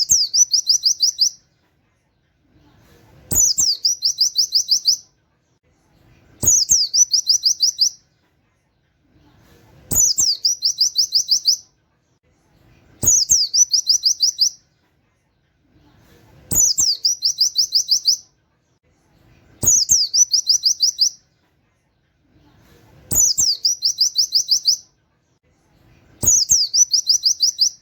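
White-eye (pleci) singing in 'nembak' style: a short phrase repeated about every three seconds, each a sharp falling note and then a fast, even trill of 'wit wit' notes, high-pitched.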